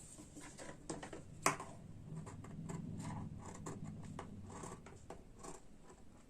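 Scissors snipping and trimming around cloth, with light scratchy rustling of the fabric being handled and one sharper click about a second and a half in.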